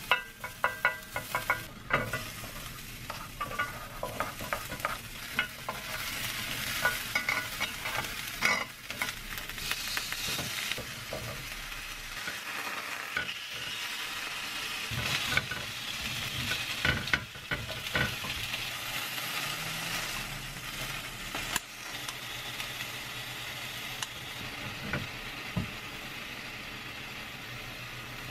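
Food frying in a grill pan: garlic sizzling as a spatula stirs it, with sharp taps of the utensil on the pan in the first few seconds, then steak and vegetables searing with a steady sizzle while tongs turn them, with occasional clacks.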